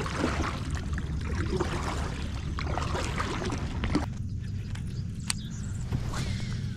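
Water gurgling and sloshing against a kayak hull as the kayak gets under way, over a steady low rumble. The splashing is busiest for the first four seconds, then eases, with a few sharp clicks.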